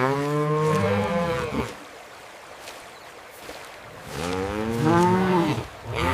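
Cow mooing: a long low moo at the start, a second one about four seconds in, and another beginning near the end.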